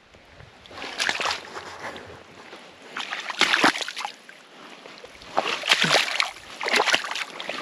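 Splashing and sloshing in deep muddy water, coming in separate bursts a second or two apart.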